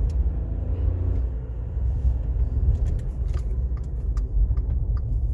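Small car's engine and road noise inside the cabin as it drives in a low gear, a steady low rumble, with scattered faint clicks and rattles.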